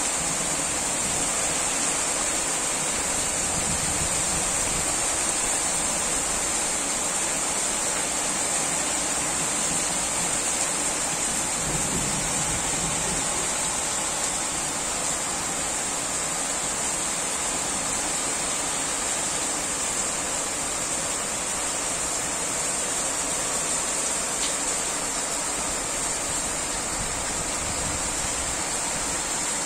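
Steady heavy rain, with a brief low rumble of distant thunder about twelve seconds in.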